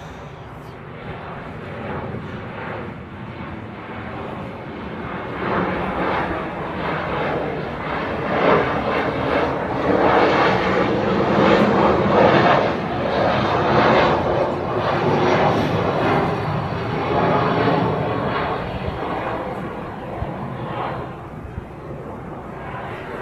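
Airplane approaching and passing by: a rushing engine noise that grows louder, is loudest around the middle, then fades away.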